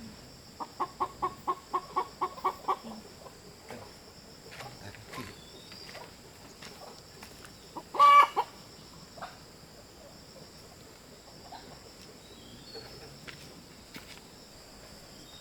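Chicken clucking: a quick run of about ten clucks in the first few seconds, then one loud short squawk about eight seconds in, over a steady high drone.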